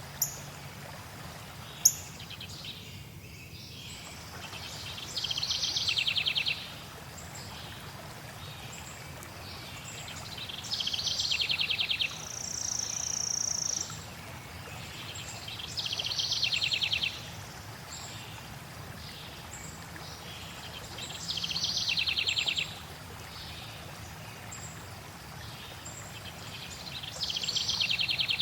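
A songbird repeating a fast buzzy trill of about a second and a half, roughly every five and a half seconds, with one long high whistled note between two of them. Behind it runs a steady hiss of flowing water, and two sharp clicks come in the first two seconds.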